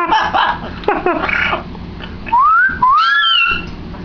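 Yellow-naped Amazon parrot babbling briefly, then giving two whistles: the first rising, the second rising and then falling.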